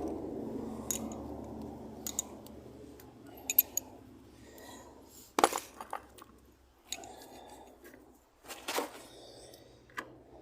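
Metal hand tools and sockets clinking and knocking, a rustle fading over the first couple of seconds, then scattered sharp clicks spaced a second or more apart, loudest about five and a half seconds in and again near nine seconds.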